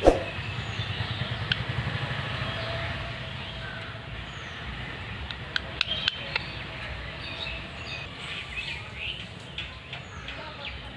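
Parrots chirping in short, scattered calls over a steady low background rumble. There is a sharp knock at the very start and a few sharp clicks about six seconds in.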